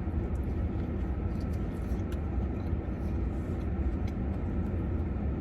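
First bite and chewing of a crispy fried chicken sandwich: faint, scattered crunchy ticks. A steady low rumble runs underneath and is the loudest thing.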